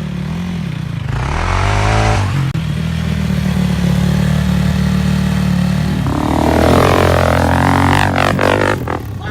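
Off-road vehicle engine running at speed: its pitch dips and climbs again about a second in, then holds steady. About six seconds in, the engine sound changes to crossing rising and falling pitches, with a few sharp clicks near the end.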